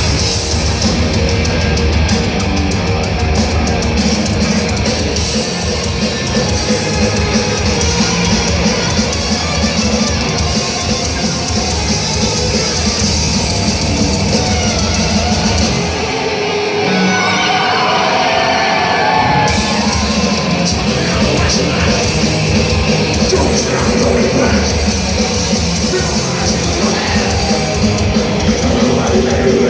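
Heavy metal band playing live, with distorted electric guitars and pounding drums. About 16 seconds in, the low end drops out for three or four seconds, leaving a wavering lead line before the full band comes back in.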